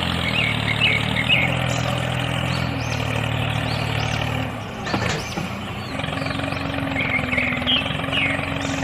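A DIY mini tractor's small motor running steadily. About five seconds in there is a sharp click, and after it the hum settles at a slightly higher, steadier pitch. Birds chirp briefly near the start and again near the end.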